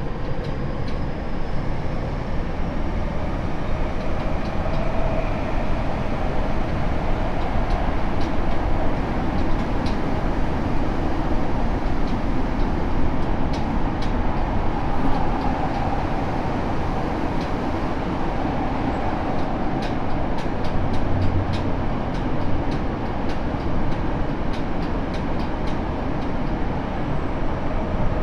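Tokyo Metro 7000 series electric train with Hitachi IGBT inverter running between stations: a steady rumble of wheels on rail with faint motor tones. Scattered sharp clicks come mostly in the second half.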